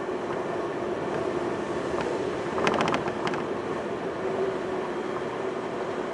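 Semboku Rapid Railway 5000 series train running at speed, heard from inside the car: a steady rumble with a continuous hum, and a short run of clicks and clatter about two and a half seconds in.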